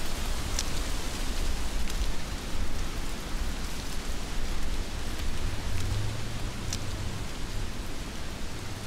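Heavy rain falling steadily, a dense even hiss, with two sharper drop ticks, one just after the start and one about seven seconds in.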